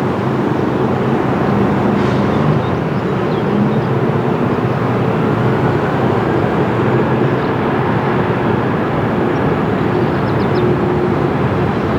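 Jet airliner engines running, a steady loud noise with a low hum.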